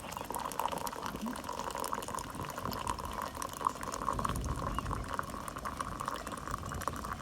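Water from a wood-fired samovar's tap streaming steadily into a cup.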